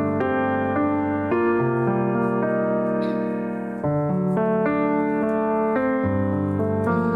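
Instrumental keyboard music with no singing: sustained chords that change about every second, with a brief dip in level just before the four-second mark.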